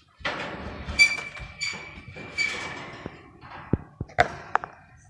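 Birds calling in a series of harsh, noisy squawks, some with a held note, followed by a few sharp knocks about four seconds in.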